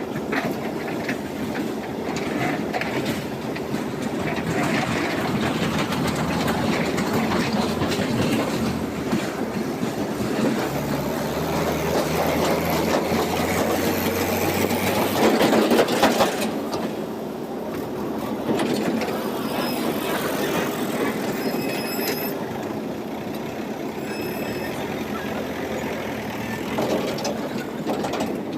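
JCB backhoe loader at work on gravel: its diesel engine runs under load with continuous rattling and clanking of the bucket, arm and stones. The engine note swells to its loudest about fifteen seconds in, then drops back.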